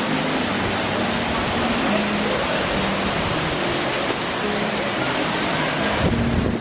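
Steady rush of falling water, with background music playing under it.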